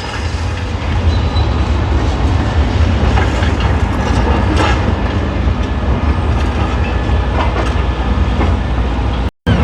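Heavy diesel excavator running on a demolition site: a steady low engine rumble with scattered metallic clanks and rattles. The sound cuts out for a moment near the end.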